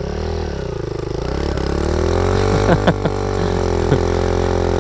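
Small single-cylinder mini bike engine running, its speed dipping and rising with the throttle for the first couple of seconds, then revving up and holding a steady higher speed. A few short sharp clatters come a little before and after three seconds in.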